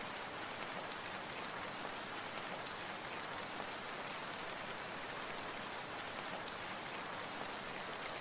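Steady rain falling, an even hiss that stays at one level throughout, with no single drops or splashes standing out.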